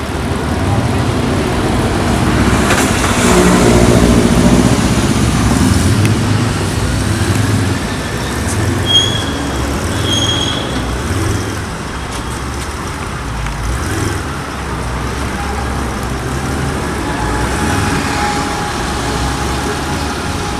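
City street traffic with a car engine growing loud and passing, loudest a few seconds in.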